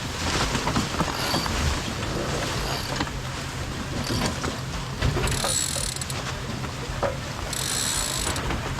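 Sailboat deck hardware: lines running through pulley blocks and a winch ratcheting, in two spells of a second or so, one about five seconds in and one near the end, over a steady low rush of wind and water.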